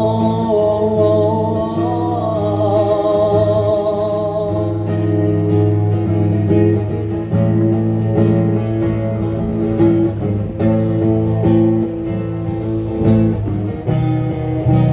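Instrumental break of a live band playing a Cantonese pop ballad, led by guitar. A long held note wavers with vibrato over the first four seconds or so; after that the band plays on with a beat.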